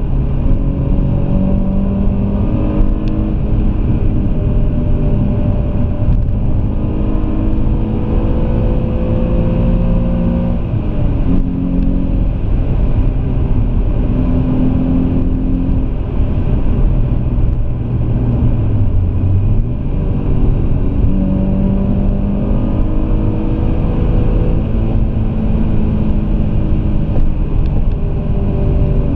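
Alfa Romeo 166 3.2's V6 engine heard from inside the cabin, pulling through the gears: its pitch climbs and then drops at each shift, several times over. Steady road and tyre rumble runs underneath.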